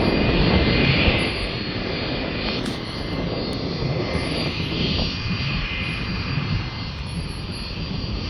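Military airplane's engines running on the airfield: a steady engine noise with a high whine over it, a little louder in the first second and then even.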